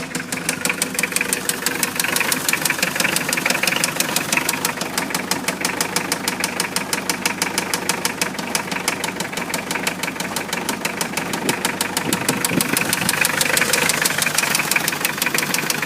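Mitsubishi 4D56T four-cylinder turbo-diesel engine idling with a rapid, regular knock.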